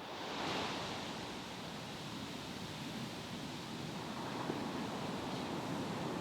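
Ocean surf washing ashore: a steady rush of waves that comes in suddenly and swells within the first second.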